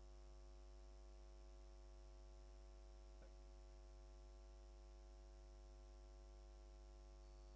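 Near silence: a steady low electrical hum, with one faint click about three seconds in.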